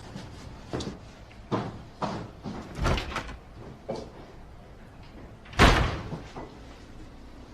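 A few short knocks and clatters, then a door shut hard about five and a half seconds in, the loudest sound.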